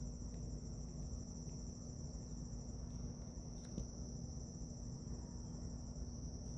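Steady high trill of crickets over a low hum, with a faint click about three and a half seconds in.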